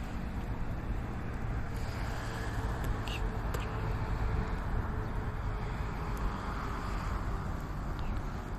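Fire burning in a fire pit on a load of cat litter: a steady rushing noise with a few faint crackles.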